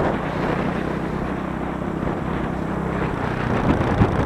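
Motorcycle engine running at a steady speed while riding, under wind noise on the microphone.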